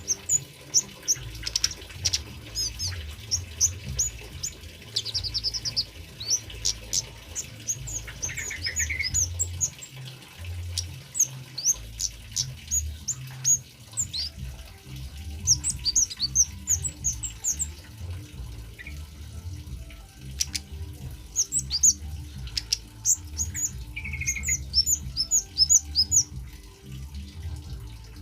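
A male kemade bird calling in a rapid series of short, high chirps, with a couple of lower warbled notes, over a steady trickle of running water.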